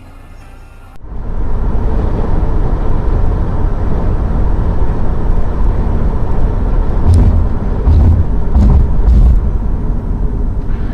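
Loud, steady rumble of a moving car's road and engine noise picked up by a dash camera's microphone. It starts suddenly about a second in, and a few faint clicks come in the second half.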